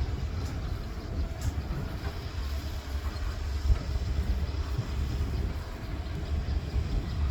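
Excavator engine running with a steady low rumble.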